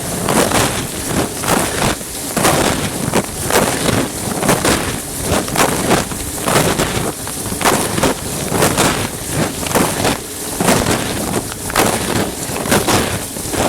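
Dishwasher wash cycle heard from inside the machine: water spraying and splashing against the plastic bag around the recording phone, loud and hissing, surging in irregular gushes about once or twice a second.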